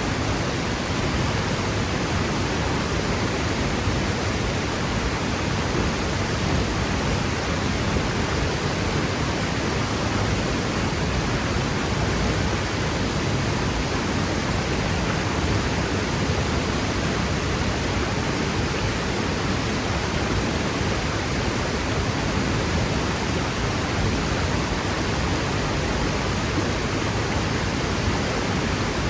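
Franklin Falls waterfall: water pouring and crashing in a steady, loud rush with no breaks.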